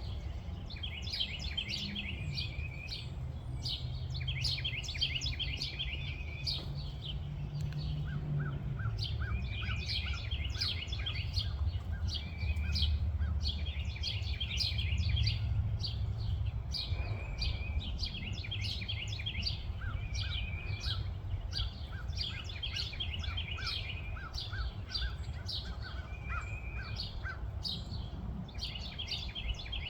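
Small birds chirping in quick, overlapping series of high notes, with a slower run of short, lower notes twice, over a steady low rumble.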